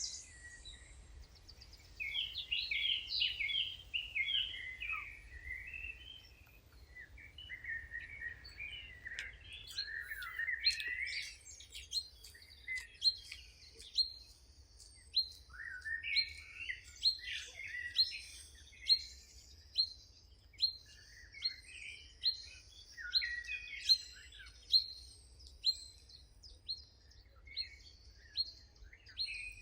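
Several songbirds singing: tumbling, warbling phrases, and from about twelve seconds in a steady series of short, sharp high chirps repeated roughly once a second over the other song.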